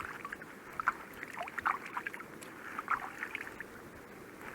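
Water lapping and slapping against a small boat in wind-driven waves: irregular small splashes over a low wind rumble.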